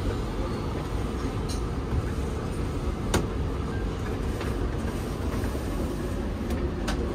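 Steady rumble of the Rokumon tourist train running, heard inside its passenger car, with a single sharp click about three seconds in.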